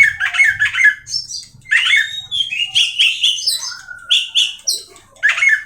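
Oriental magpie-robin (kacer) singing a loud, varied song of clear whistled phrases mixed with rapid chattering trills, with short breaks between phrases.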